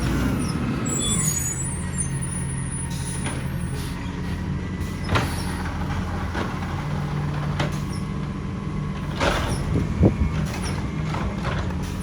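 Diesel engine of a side-loader garbage truck idling, its revs falling away in the first second, with a few sharp knocks and clanks over the drone.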